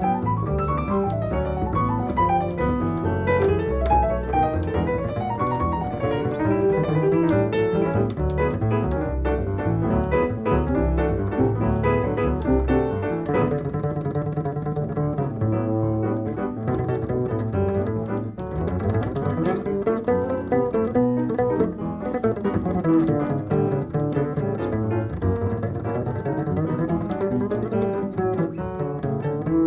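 Jazz double bass carrying the melody, with piano accompanying lightly; in the second half the bass notes slide up and down in pitch.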